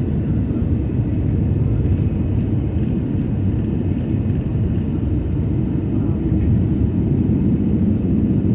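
Steady low rumble inside the cabin of an Airbus A320neo in flight: airflow and its Pratt & Whitney PW1100G geared turbofan engines, with a few faint ticks.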